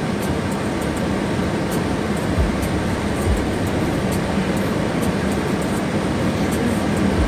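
Steady hum of a car's engine and air conditioning, heard inside the cabin, with a few soft low thumps.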